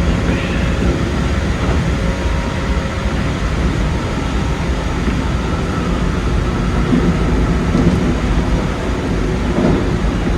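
Keikyu 2100 series electric train running at speed: a steady rumble of wheels on rail with a faint steady whine, heard from inside the driver's cab.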